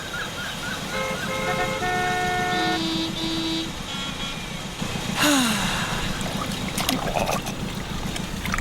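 A small engine chugging with a steady rapid pulse, with a series of short horn-like toots in the first few seconds and a noisy whoosh about five seconds in.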